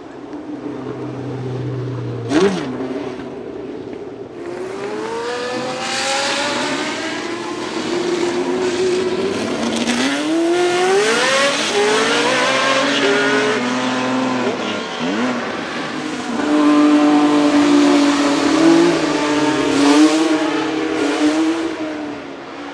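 Historic Formula 1 race car engine at high revs, its pitch climbing and dropping back several times through the gear changes, louder in the second half. There is a sharp crack about two seconds in.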